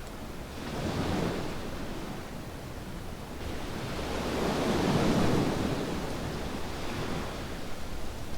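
Small waves washing up on a beach: a smaller wave about a second in, then a larger one building and breaking about five seconds in before drawing back.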